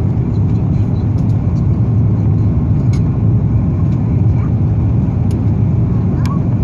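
Steady low rumble of cabin noise inside an Airbus A330-300 airliner during its landing, with a few faint clicks.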